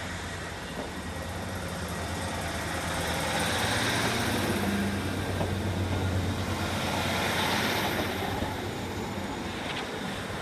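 Train moving through the station, with a steady low hum under a wider rushing noise that swells in the middle and eases off toward the end.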